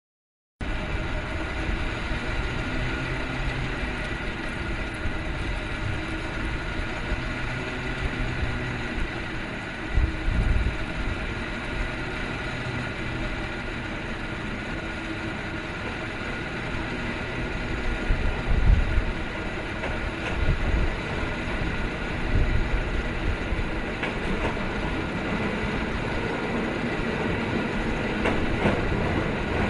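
San Francisco cable car coming up the hill on its rails, with a steady whirring hum and clatter from the street-level cable line. Several low thumps come about a third of the way in and again around two-thirds of the way through.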